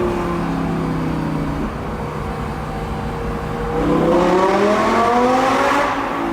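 Audi R8 V10+'s naturally aspirated V10 through a Capristo exhaust, running steadily and then accelerating hard about two-thirds of the way in, its pitch climbing quickly before easing off near the end.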